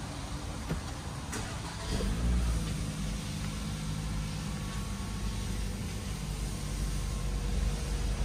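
Toyota Alphard 2.5 SC's 2.5-litre four-cylinder petrol engine started by push button, heard from inside the cabin: a click, then about two seconds in the engine catches, flares briefly and settles into a steady idle.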